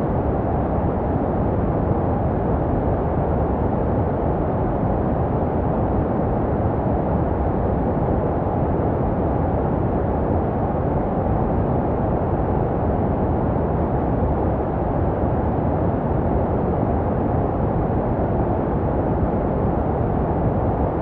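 Steady low, muffled rushing noise, a dark filtered white noise for infant sleep meant to resemble sounds heard in the womb, unchanging throughout.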